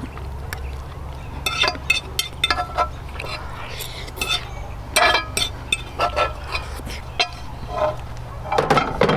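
Utensils and dishes clinking and scraping in short, irregular clicks, over a steady low hum.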